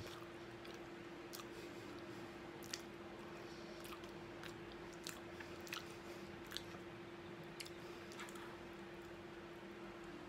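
A man chewing roast potatoes close to the microphone: quiet, irregular wet mouth clicks and smacks, with a steady faint hum underneath.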